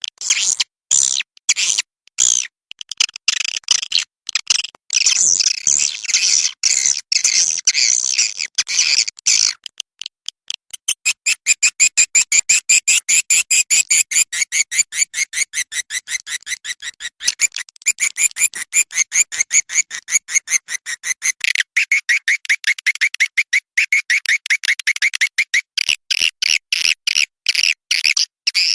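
A songbird singing in long runs of quick, high chirps, many short notes a second.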